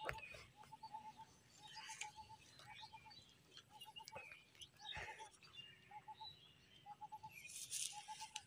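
A bird calling over and over, faint: short quick runs of four or five same-pitched notes, about once a second. A few soft knocks and a rustle near the end.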